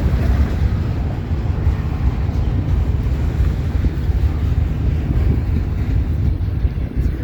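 Double-stack intermodal freight cars rolling past, a steady low rumble, with wind buffeting the microphone.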